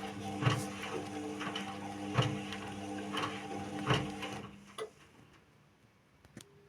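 Indesit WIU 81 washing machine on its quick 30° programme, its motor humming as it turns the drum, with a thud roughly every two seconds as the load tumbles. The motor stops about four and a half seconds in, then two faint clicks are heard.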